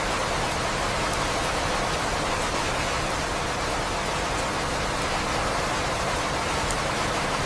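Steady rain, a dense even hiss of falling water with faint scattered drop ticks.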